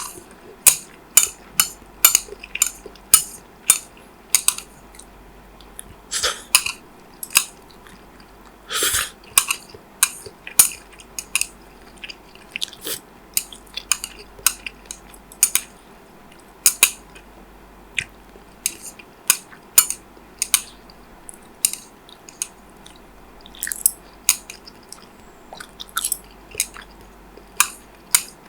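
A person chewing and biting food close to the microphone: irregular sharp mouth clicks and smacks, one or two a second, with one longer sound lasting about a second around nine seconds in.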